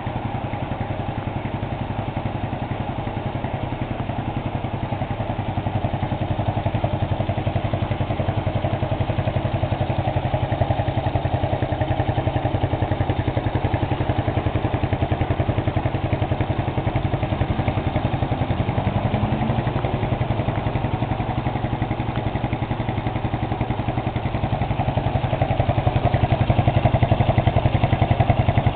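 Honda FTR223's single-cylinder four-stroke engine idling steadily through an aftermarket RSV muffler, growing a little louder near the end.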